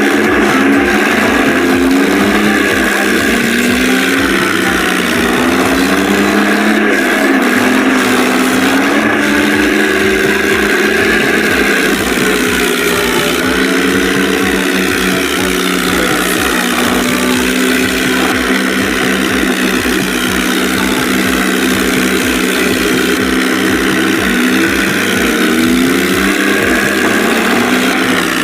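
Tractor engine running, its pitch rising and falling again and again as it is revved.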